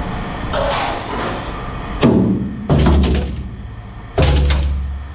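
Pieces of scrap metal thrown into a metal bin, landing with three heavy clangs that ring out, the first two close together and the third about a second and a half later.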